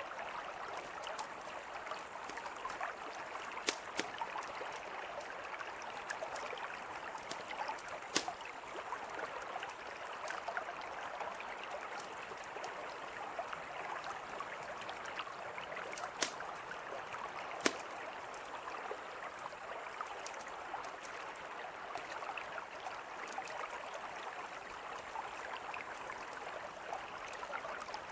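A mountain river flowing steadily, with a campfire crackling over it: a few sharp pops stand out, near four, eight, sixteen and eighteen seconds in.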